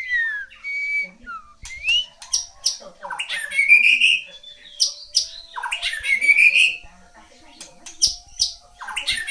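A songbird singing close up: phrases of quick, slurred whistled notes that glide up and down, with the loudest phrases about three to four seconds and six seconds in.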